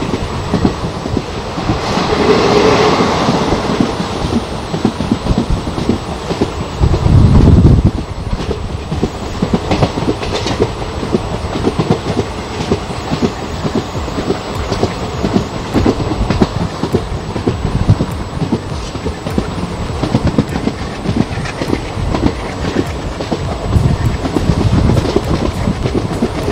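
Passenger train coaches running at speed, wheels clattering rapidly over the rails with a steady rushing noise. There is a brief louder swell about two seconds in and a heavy low rumble about seven seconds in.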